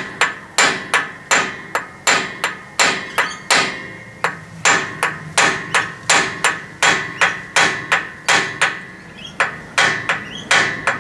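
Repeated hammer blows on the hub of a Toyota Landcruiser 80 series full-floating rear axle, about two to three a second with a metallic ring, shocking loose the tapered cones that locate the axle flange on its studs.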